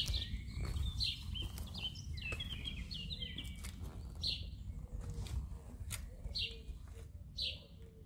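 Small birds chirping repeatedly, short high chirps about once a second, over a steady low rumble, with a few sharp taps.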